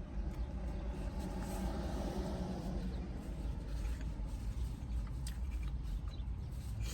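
Close-up chewing and mouth noises from eating a steak, egg and cheese bagel, over a steady low rumble.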